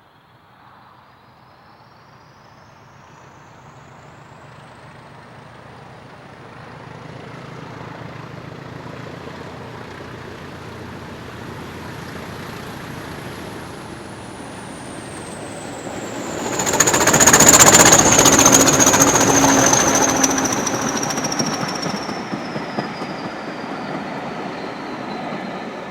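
British Rail Class 20 diesel locomotive approaching and passing at speed. Its engine noise and a high whine grow steadily louder, peak sharply about 17 seconds in, then fade as it goes away. The whine drops in pitch as it passes.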